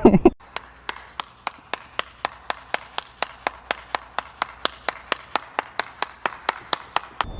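A steady run of sharp, evenly spaced clicks, about three to four a second.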